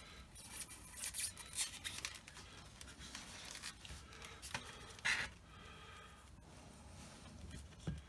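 Hobby-knife blade cutting through the foam nose of a model plane along a panel line, heard as a series of short, faint scratchy strokes, the loudest about five seconds in.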